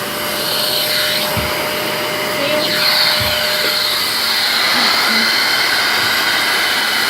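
Shark Rotator Professional upright vacuum running with a steady whine and a rush of air through the power brush attachment. The air-driven brush roller is not turning.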